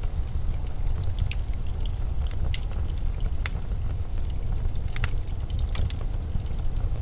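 Blizzard wind as a steady deep rumble, with scattered sharp crackles and ticks over it.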